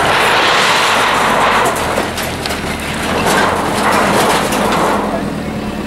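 A bulldozer knocks down a stone structure. Stone and debris crash and grind in two long bursts, one at the start and another about three seconds in, over the low running of the bulldozer's diesel engine.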